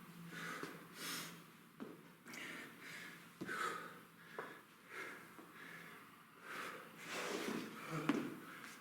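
A man breathing hard in a steady rhythm of forceful exhales while exercising with a kettlebell. A few sharp clicks fall between the breaths.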